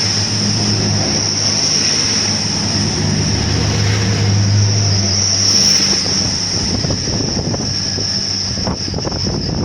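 A train passing, with a steady high whine and a low hum that fades out about six seconds in. Wind buffets the microphone near the end.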